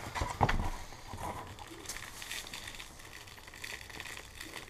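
Packaging being slowly opened by hand, rustling and crinkling faintly, with a few short handling knocks at the start.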